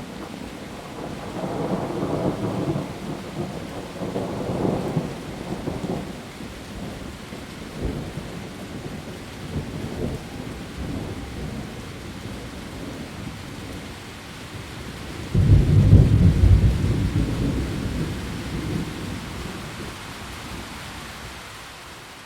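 Heavy rain falling steadily on leaves, with rolling thunder: low rumbles early on and a loud thunderclap about fifteen seconds in that rumbles away over the next several seconds.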